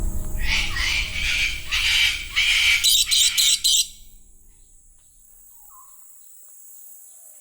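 A bird calling: a quick run of about six short, scratchy, screechy calls that stops about four seconds in.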